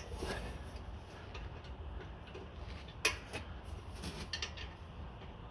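Scattered sharp clicks and light knocks from fitting an exhaust back box by hand under a car. The clearest comes about three seconds in, and a quick run of them follows about a second later, over a steady low hum.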